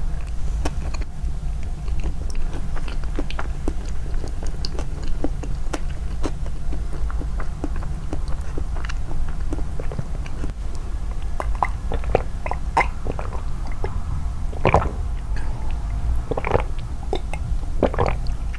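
Close-miked eating sounds: chewing and biting, with many small wet mouth clicks over a steady low rumble, and a few louder bites in the last few seconds.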